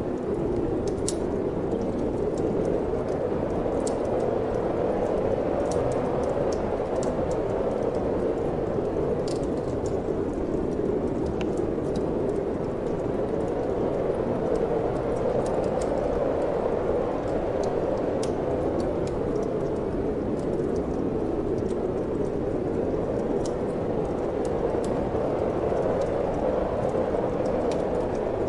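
Steady wind blowing, with scattered faint crackles and pops of a wood fire burning in a fireplace.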